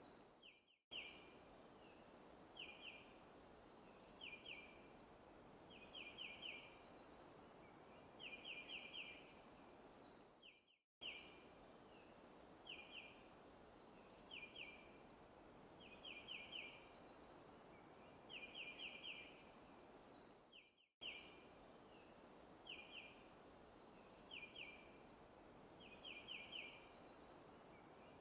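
A bird chirping in short bursts of two to five quick, high notes every second or two over a steady soft background hiss, a looped forest ambience. The sound briefly fades out and restarts about every ten seconds, three times.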